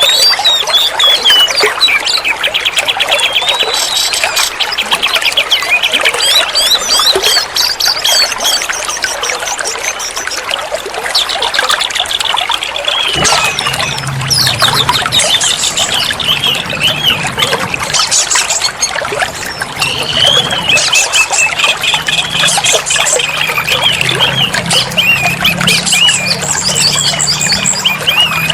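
Oriental magpie-robin (kacer) singing a loud, varied song of whistles and rapid trills over steadily trickling water.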